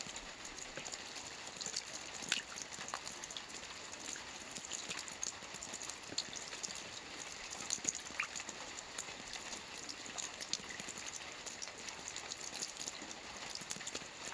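Soft rain falling on a roof: a steady hiss scattered with many irregular, sharp drop ticks.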